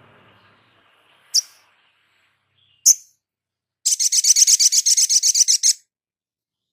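High-pitched small songbird calling: two sharp single notes a second and a half apart, then a fast trill of about nine notes a second lasting about two seconds.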